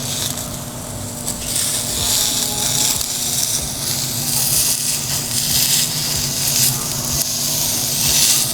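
Chicken and vegetable skewers sizzling on a hot indoor grill, the hiss growing louder about one and a half seconds in and then holding, over a steady low hum.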